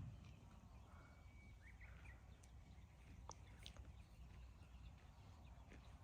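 Near silence: faint outdoor ambience with a low rumble and a few faint, short high chirps and ticks.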